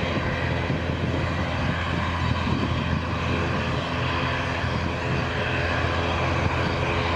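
Airliner engines running with a steady, unbroken noise.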